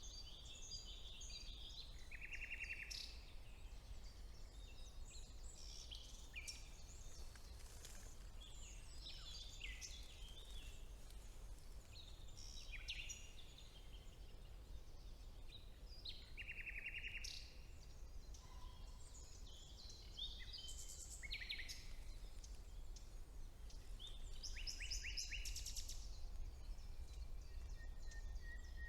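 Several songbirds singing at once: overlapping high chirps, whistles and rapid trills, with a low steady rumble beneath.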